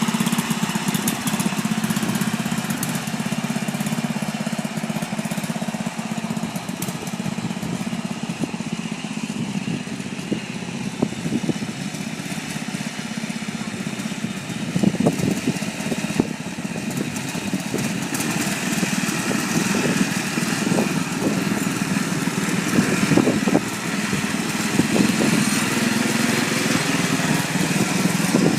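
Allis-Chalmers 608 LTD lawn tractor's small engine running steadily. Irregular knocks are heard over it in the second half.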